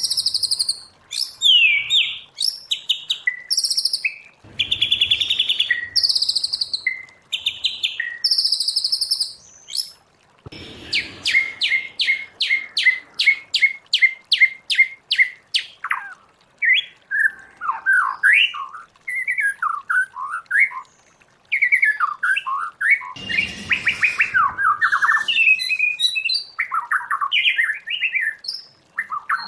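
White-rumped shama singing a varied song: clear high notes, then a fast run of evenly repeated notes about a third of the way in, then warbling phrases that slide up and down.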